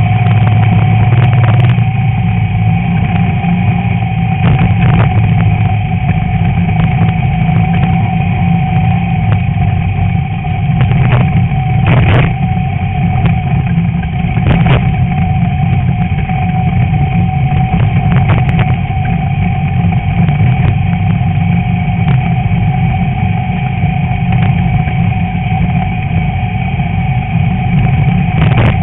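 Class 11 VW Beetle's air-cooled flat-four engine running steadily under race load. Several sharp knocks and rattles come from the car at irregular moments.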